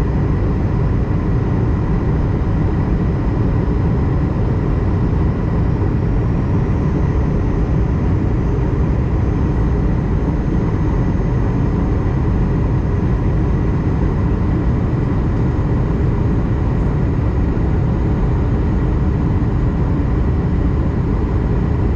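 Airbus A220-100 passenger cabin in flight during descent: the steady, even rumble of its Pratt & Whitney PW1500G geared turbofans and the airflow, with faint steady high tones above it.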